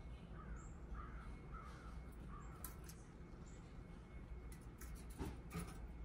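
Birds calling outdoors: a run of about five short, harsh crow-like calls in the first two and a half seconds, with a few thin high chirps, then two sharp taps a little after five seconds.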